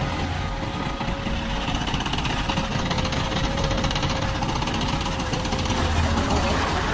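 Diesel engine of a JCB 3DX backhoe loader running steadily, with a faint steady whine over it.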